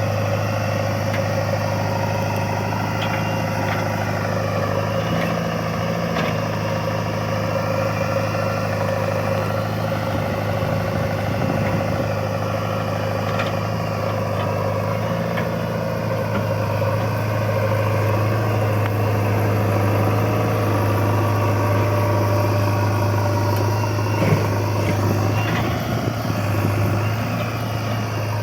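Swaraj tractor's diesel engine running steadily, with one sharp knock near the end.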